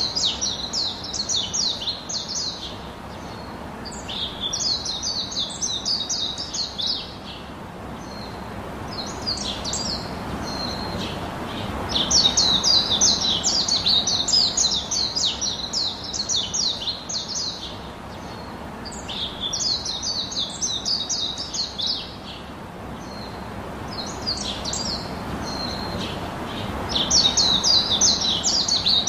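Small birds chirping in quick runs of high notes, bout after bout with short pauses between.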